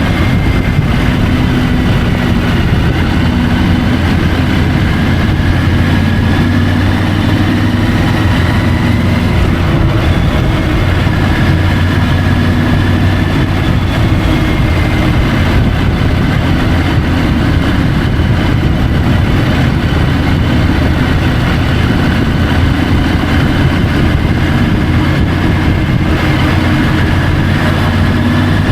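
Triumph Tiger 850 Sport's three-cylinder engine running at a steady cruise, heard from a bike-mounted camera together with a dense rush of wind and road noise. The level holds even, with no marked revving or gear changes.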